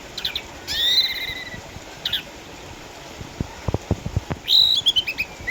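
Orange-headed thrush singing: a loud whistled phrase with gliding notes about a second in, a short chirp, and near the end a quick run of notes stepping down in pitch. A few dull thumps come in between the phrases.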